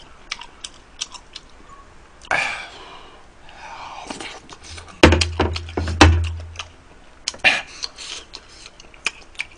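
A person chewing tteokbokki rice cakes with many small wet mouth clicks. There are two loud knocks with a deep thud about five and six seconds in.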